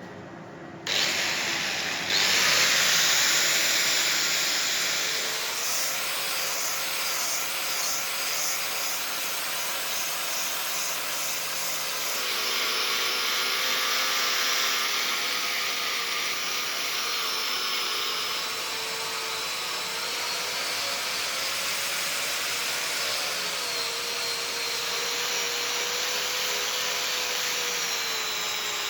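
Electric power tool working the steel knife blade: it starts abruptly about a second in, gets louder a second later, then runs steadily with a whine that wavers up and down in pitch.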